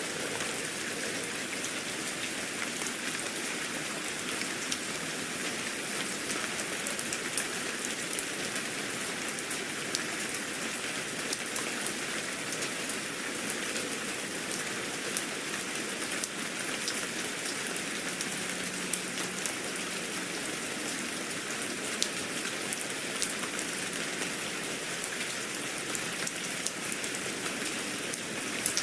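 Steady rain falling, an even hiss with many small drops ticking.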